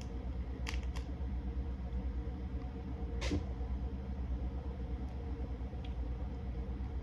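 Eating a seafood boil: a few sharp clicks and cracks of shells being handled and chewed, two about a second in and the loudest about three seconds in, over a steady low hum.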